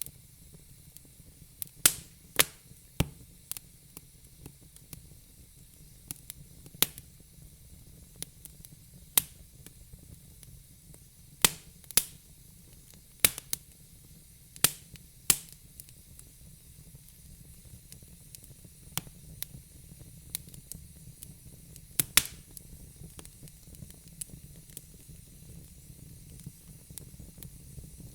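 Wood fire in a fire pit, crackling: sharp irregular pops and snaps over a soft steady hiss. The pops come thick and fast in the first half and thin out later, while the hiss grows a little stronger near the end.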